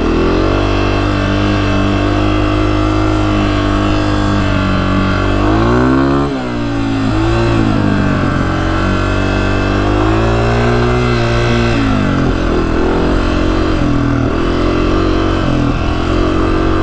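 Honda CRF250F dirt bike's single-cylinder four-stroke engine under way, its pitch rising and falling with the throttle. About six seconds in it climbs sharply, then dips briefly before pulling again, and it drops back again around twelve seconds.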